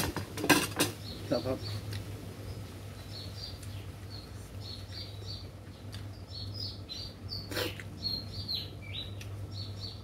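Small birds chirping in quick repeated high notes, with a few clinks of a spoon and fork against a plate near the start and once more about three-quarters through, over a steady low hum.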